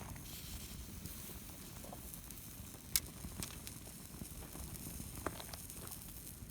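Wood fire crackling, with a few sharp pops, the loudest about three seconds in, over a low steady rumble.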